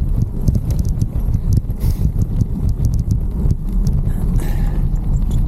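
Single-speed hybrid bike clattering down a rough dirt trail: many irregular knocks and rattles over a steady low rumble of tyres and wind on the bike-mounted camera.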